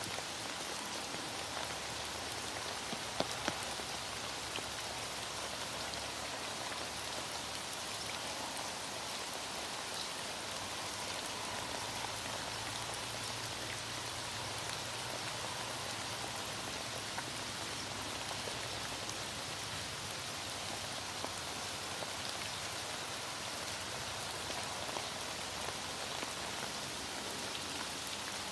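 Heavy rain falling steadily on surfaces, an even hiss of drops, with a couple of brief sharp drip ticks about three seconds in.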